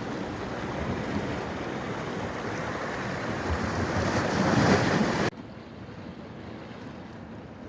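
Steady rush of running water that swells, then cuts off abruptly a little past halfway to a much quieter, fainter water hiss.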